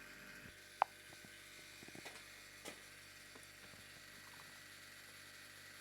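Refrigerator compressor running with a faint steady hum while the fridge cools down. One short sharp click about a second in.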